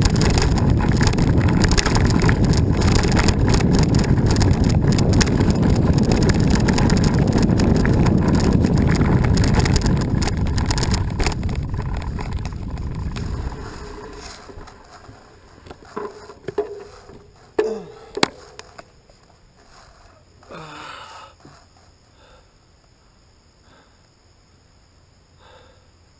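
Mountain bike riding over a trail, with dense rattling riding noise and wind rumbling on the microphone, fading out about halfway through as the bike slows and stops. After that come a few sharp clicks and brief squeaks, then quiet.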